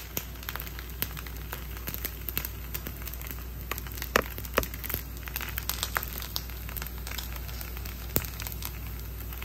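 Rice roti frying in a little oil in a nonstick pan: irregular crackling and popping, with a low steady hum underneath.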